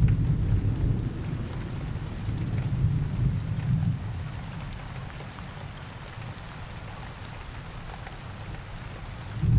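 Steady rain with a low rumble of thunder that is loudest at the start and fades over about four seconds. A second rumble of thunder rolls in near the end.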